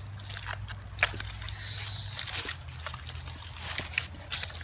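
Wet mud and water sloshing and squelching, with scattered small irregular knocks and clicks, as the mud is dug and worked through.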